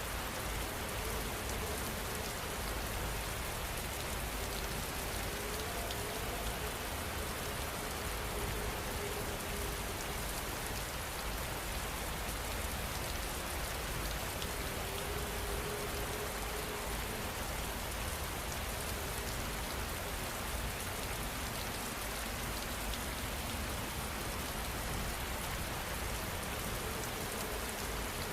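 Steady rain falling, an even hiss of drops without letup.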